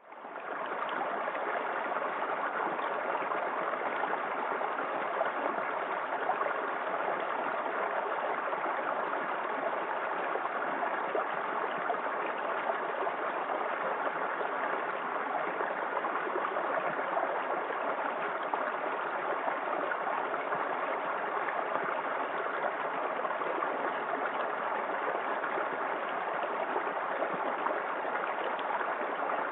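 Small forest-creek waterfall: water splashing and rushing steadily. The sound cuts back in from a brief dropout at the very start.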